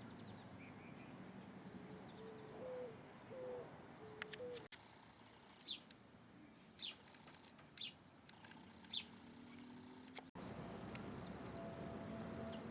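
Birds calling in separate short recordings: first four short, low, hooting notes, then four brief high chirps about a second apart, then a few faint high notes.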